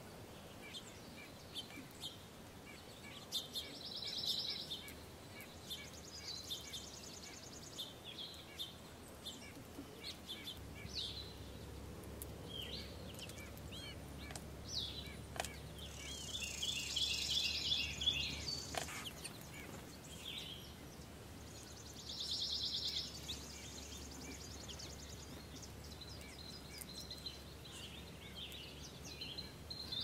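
Songbirds chirping and calling, with several short, rapid trilled phrases scattered through. A steady low hum comes in about ten seconds in.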